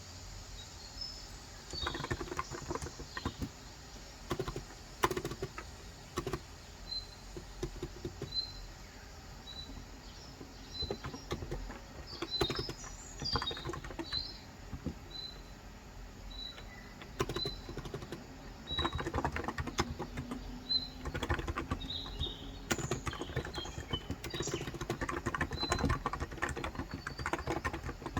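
Typing in bursts of soft keystrokes on a Cox Endeavor tenkeyless electrostatic-capacitive keyboard with 35 g switches. Behind it a bird repeats a short high chirp about once a second, with busier twittering twice.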